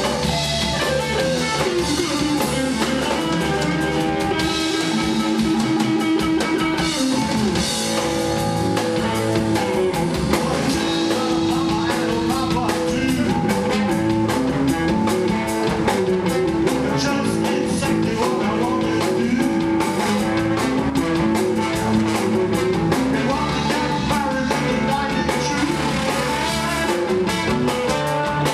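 Band music with guitar and drum kit and a steady beat, with some singing.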